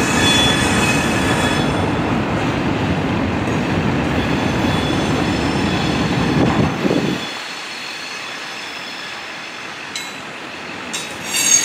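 Freight train cars (boxcars and centerbeam lumber flatcars) rolling past, with high-pitched wheel flange squeal in the first second or two. The deep rumble drops away about seven seconds in, leaving quieter wheel noise, and the squeal comes back near the end.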